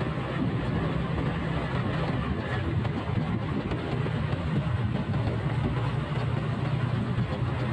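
Motorcycle engine running at a steady pace while riding, with road and wind noise.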